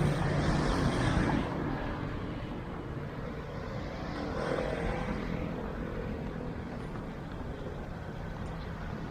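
Road traffic: a motor vehicle passes close by, loudest in the first second and a half, then fades into steady background traffic with engines running.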